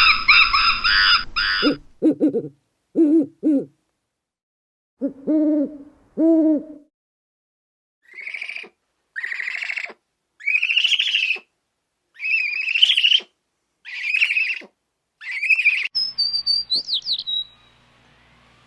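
Owl hooting: four low hoots in two pairs, then a run of seven higher, rising calls about a second apart. It opens with the end of a loud high-pitched call and ends with a short whistle.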